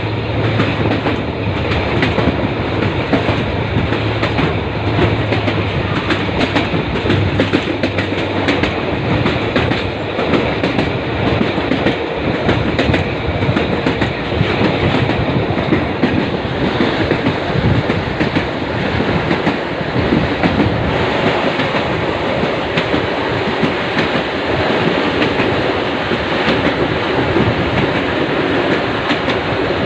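Cairo–Menouf suburban passenger train running at speed: steady rumbling rail noise with the wheels clattering over rail joints, and a low hum in the first several seconds.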